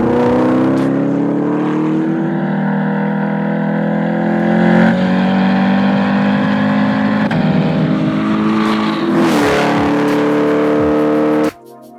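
C8 Chevrolet Corvette's V8 exhaust under hard acceleration, its pitch climbing and breaking at several quick gear shifts. The sound cuts off abruptly near the end.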